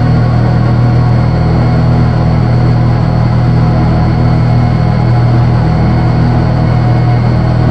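Loud, steady electronic drone from analog drone synthesizers: a thick low hum with a dense, noisy layer above it, holding without a break.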